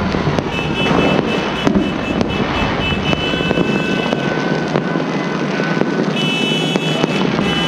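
Many fireworks and firecrackers going off across the neighbourhood: a dense, unbroken crackle of pops and bangs. Several high, steady whistling tones sound over it, held a second or more at a time and strongest near the end.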